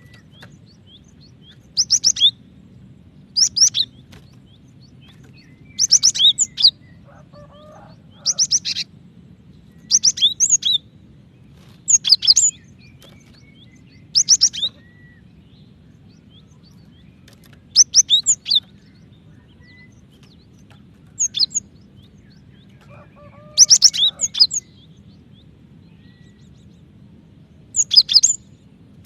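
Female cinereous tit calling to a male: short clusters of quick, high chirping notes, repeated about every two seconds with a few longer pauses, over a faint steady low hum.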